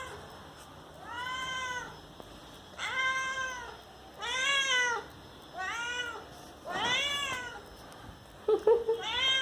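A domestic cat meowing again and again, about six drawn-out meows roughly a second apart, each rising and then falling in pitch. Near the end come a few short, clipped calls before another long meow.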